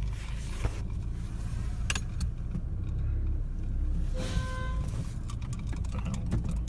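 Car idling, a steady low rumble heard from inside the cabin, with a few sharp clicks and a short beep about four seconds in.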